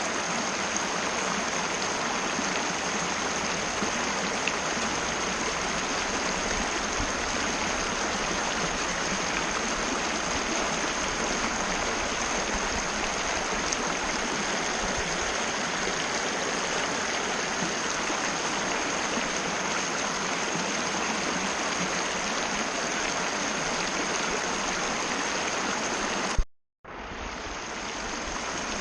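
Mountain river rushing steadily over rocks, with a thin steady high tone beneath it. About 26 seconds in, the sound cuts out for a moment after a click, then fades back in, as at an edit join.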